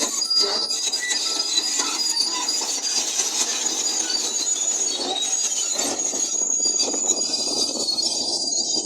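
Crawler bulldozer working, with a high, steady metallic squeal from its steel tracks over dense, noisy running sound.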